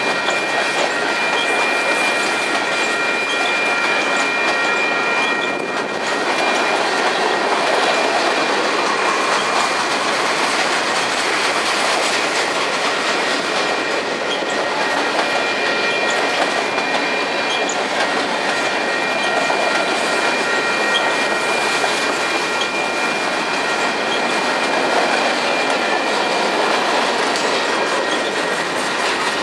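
A train rolling past close by: a loud, steady rush of wheels on rails and passing cars, with thin, high, steady tones like wheel squeal over it.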